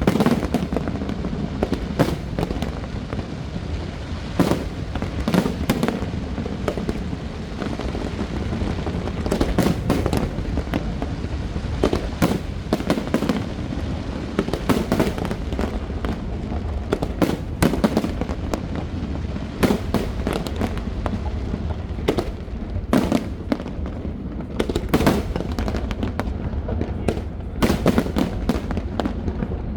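Aerial fireworks bursting in quick succession: many sharp bangs, some in rapid clusters, over a continuous low rumble.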